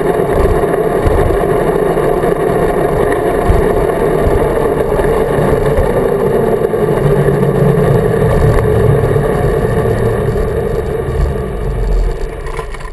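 Dirt bike engine running steadily while riding, easing off near the end as the bike slows.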